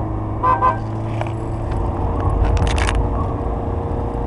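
Renault Kangoo's diesel engine droning steadily, heard from inside the cabin while driving. About half a second in there is a brief high-pitched sound, and around two and a half seconds in a quick run of clicks and rattles.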